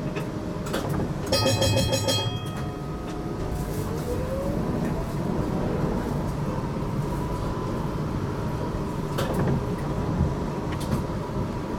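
Inside a GTL8 tram: a short pulsing warning tone sounds about a second in, then the electric traction drive's whine rises in pitch as the tram pulls away and settles into a steady whine over the rumble of the car running on the rails.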